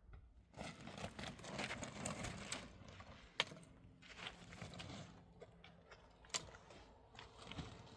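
Irregular rustling and scraping, like things being handled, with two sharp clicks: one about three and a half seconds in and one a little past six seconds.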